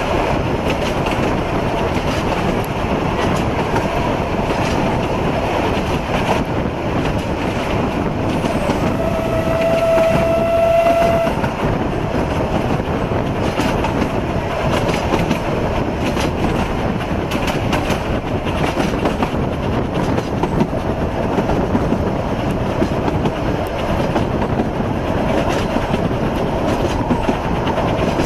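Passenger carriage of a steam-hauled narrow-gauge train running along the track, heard from an open carriage window as a continuous rumble and rattle of wheels on rails. Near the middle a single steady tone sounds for about two seconds.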